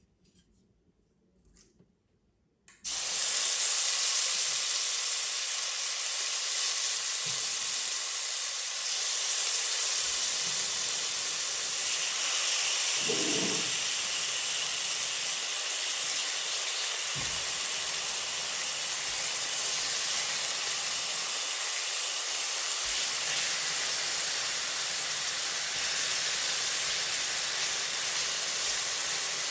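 Food frying in a hot pan: a steady sizzling hiss that starts suddenly about three seconds in.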